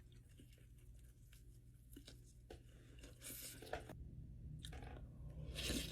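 A person chewing and biting into crispy fried chicken wings and tenders, with wet mouth clicks and a couple of louder crunchy bites about three seconds in and near the end.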